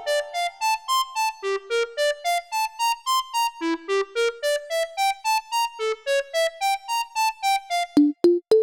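A simple melody played one note at a time on an electronic keyboard tone, about four notes a second, climbing and falling in repeated runs. Near the end it switches to another instrument with sharp, clicky note attacks playing the same tune.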